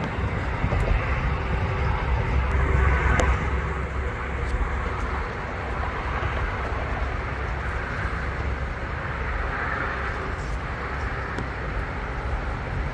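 Steady road traffic rumble, swelling as a vehicle passes about two to three seconds in.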